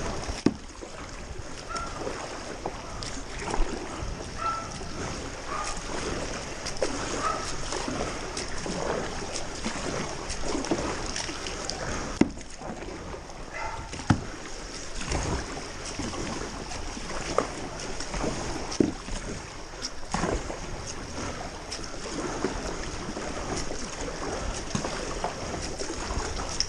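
Paddle or oars working through shallow floodwater, with steady splashing and sloshing and an occasional sharp knock.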